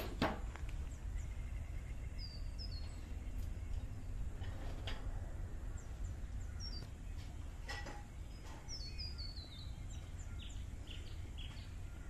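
Birds calling: short runs of high chirps that step down in pitch, about two seconds in and again near nine seconds, with a few other brief calls, over a steady low rumble and a few soft clicks.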